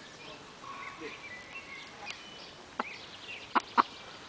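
Small wild birds chirping in the background, then three short, sharp sounds from the feeding chickens, clucks or pecks, from just under three seconds in.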